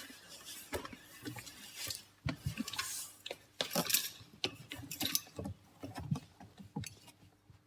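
Irregular clicks, knocks and light scraping of tools and parts being handled during work on a van door, with a few sharper knocks about two, four and five seconds in.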